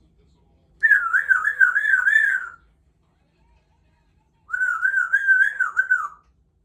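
Congo African grey parrot whistling: two warbling whistles of about two seconds each, the pitch wavering quickly up and down, with a pause of about two seconds between them.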